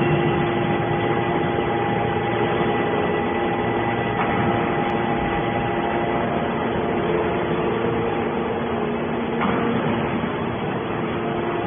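Hydraulic scrap metal baler running: a steady machine hum made of several held tones over a dense mechanical noise.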